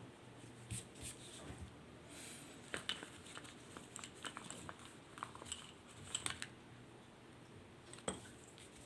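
Faint handling sounds of drawing materials: scattered light clicks and taps with a brief rustle, over a low room hum.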